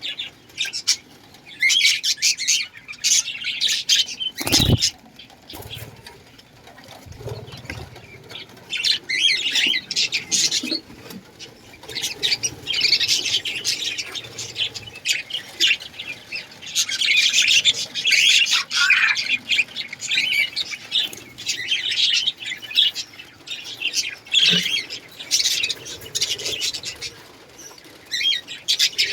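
Many small cage birds chirping and chattering continuously, with one sharp knock about five seconds in.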